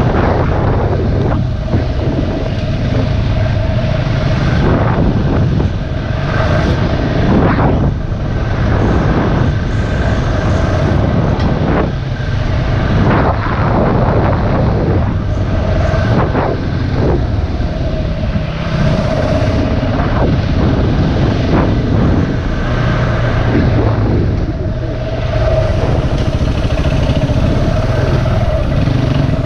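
Dirt bike engine running while the bike is ridden along a trail, the revs rising and falling, with frequent knocks and clatter over the rough ground.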